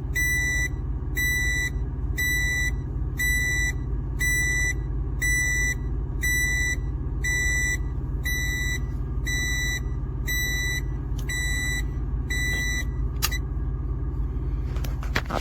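BELTTT 2000 W pure sine wave inverter sounding its alarm, a steady train of high-pitched beeps repeating about every half second over a low steady hum, as it fails to run a microwave on its 12 V supply. The beeping stops with a click about 13 seconds in.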